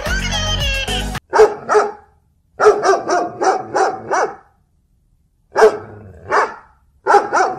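Dog barking repeatedly in quick runs of short barks with brief pauses between them, starting about a second in.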